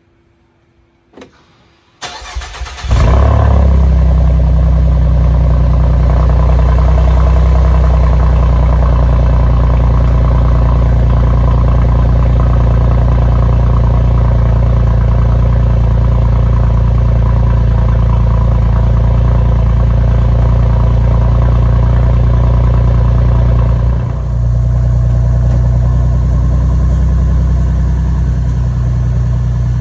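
2015 Ford Mustang's 3.7-litre V6 cold-starting through Thrush Turbo mufflers with the resonators deleted. After a faint click there is a brief crank about two seconds in, then it catches and settles into a steady, loud, deep idle. The note dips briefly about six seconds before the end, then carries on idling.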